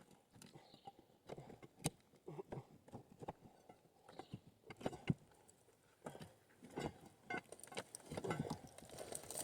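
Faint, irregular knocks and clinks of the YN27 rock drill and its air leg being handled and moved into a new position among rocks, with the drill not running.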